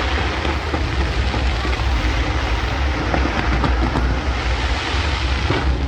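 New Year fireworks display heard as a continuous deep rumble, many bursts running together without clearly separate bangs.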